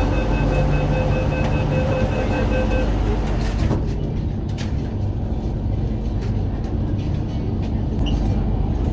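Interior noise of an MTR Island Line Q-Train car: a steady rumble and hum of the train. Over the first three seconds a steady tone at several pitches is heard, and it stops about three seconds in.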